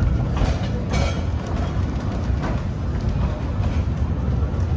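Narrow-gauge steam train rolling along, heard from aboard a passenger car: a steady low rumble of wheels and cars, with two short sharp bursts in the first second.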